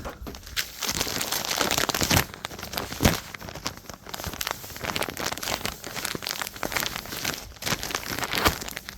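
Irregular crinkling and rustling as a new microfiber cloth is fetched and handled.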